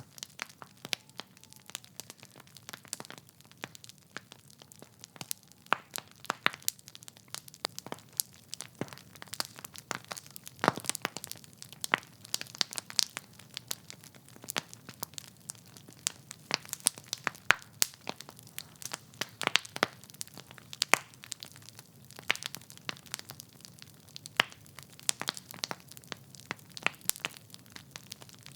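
Wood fire in a fireplace crackling: burning logs popping and snapping in irregular sharp clicks over a low, faint rumble of flame.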